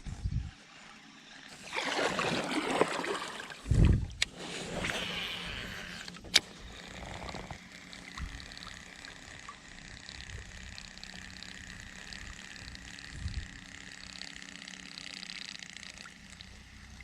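Water splashing and trickling around a kayak, loudest for a couple of seconds near the start, with two dull knocks and a couple of sharp clicks in the first few seconds, then a steady fainter wash of water.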